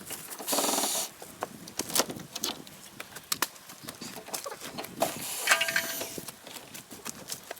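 Knocks and creaks of old wooden boards being pried and pulled off a chicken coop during demolition, with a short loud scrape about half a second in and a squeak around the middle.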